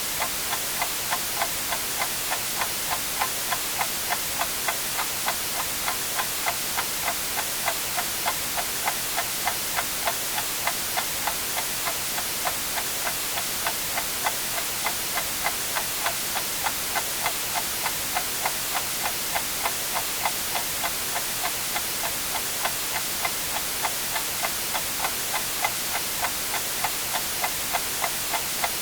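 A clock ticking evenly, about two ticks a second, over a steady white-noise hiss.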